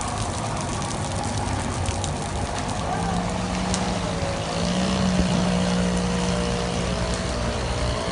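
A vehicle engine running steadily, its pitch stepping up slightly about four to five seconds in, over a constant noisy rush.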